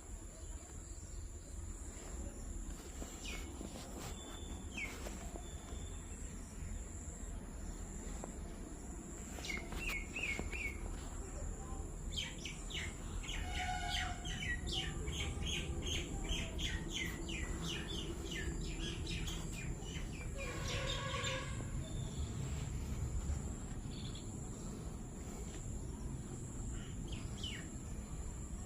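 Birds chirping and calling, with a quick run of many high notes through the middle stretch, over a steady low rumble.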